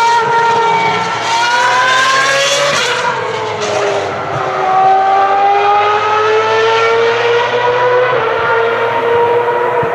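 High-revving Ferrari racing engine on track, its note climbing for about three seconds, then breaking sharply at a gear change, then sagging and climbing again as the car accelerates.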